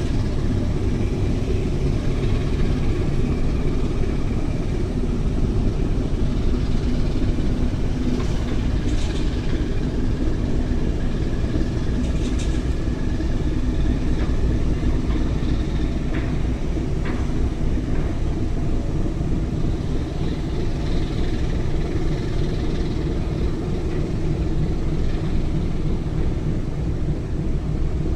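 Ferry's engines running with a steady low rumble.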